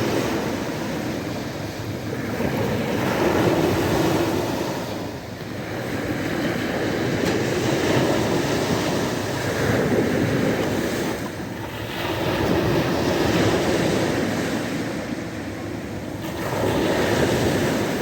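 Sea waves breaking and washing on a shore, the surf swelling and falling away in slow surges every few seconds.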